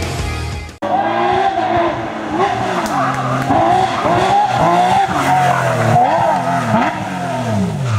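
Rally car engine at full throttle, its pitch rising and dropping again and again through gear changes and lifts. Intro music cuts off suddenly within the first second.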